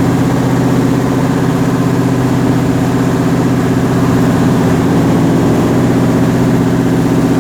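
Canal passenger boat's engine running steadily at a constant speed, a loud, even drone heard from on board.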